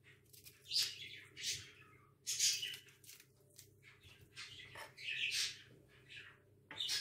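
A small bird chirping in a string of short, high calls, some sliding down in pitch, over a faint steady low hum.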